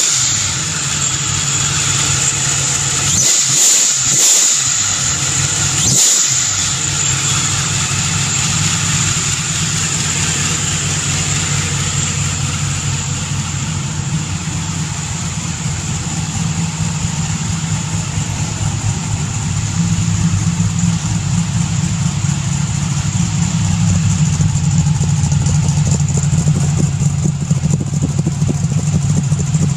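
Procharger D1–supercharged 363 cubic-inch Ford V8 with a solid roller cam, running at a steady idle. It grows louder in the last third, heard close to the exhaust.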